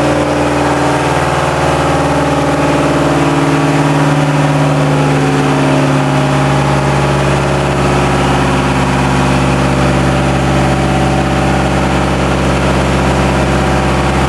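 New TDME-490 marine diesel engine, run in for less than an hour, running steadily; its pitch eases slightly at the start, then holds even.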